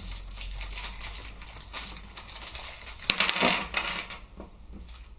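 Small metal parts clicking and clinking against a hard surface as the retaining pin is knocked out of an airsoft G36 rifle's receiver, with a louder cluster of rattling clinks about three seconds in.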